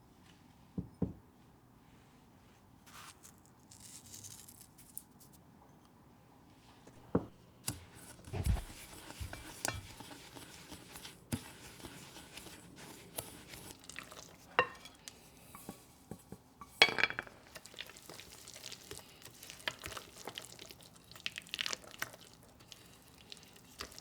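Kitchenware being handled: scattered light clinks, taps and knocks as items are picked up and set down, with a dull thump about eight and a half seconds in and a sharper clink about seventeen seconds in.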